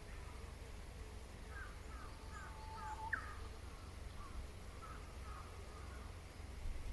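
Birds calling faintly: a run of short chirps with a brief held note and a sharp rising note about three seconds in, and more chirps a couple of seconds later, over a steady low hum.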